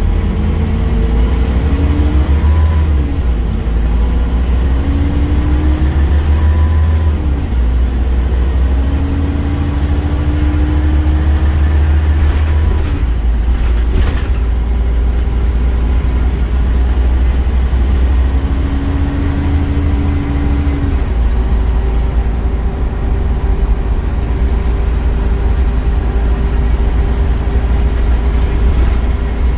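Scania Omnicity bus under way: a steady low engine drone with a transmission whine that rises in pitch several times as the bus gathers speed and changes gear. A few sharp knocks come about halfway through.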